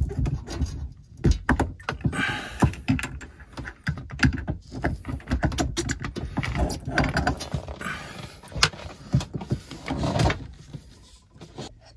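Irregular clicks, knocks and rustling of hands and tools working at a diesel engine's fuel filter to get it off.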